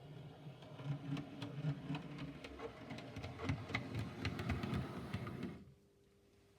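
OO gauge model locomotive running along the track: a small electric motor humming, with wheels clicking over rail joints and points. It stops abruptly about five and a half seconds in.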